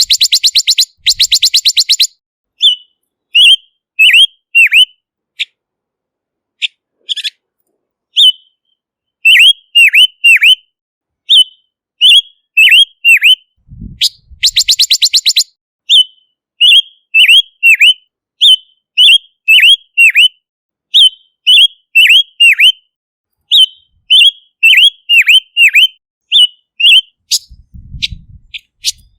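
Silver-eared mesia calling: two fast chattering rattles, and between them a long run of short, high notes that each dip sharply in pitch, repeated in quick groups.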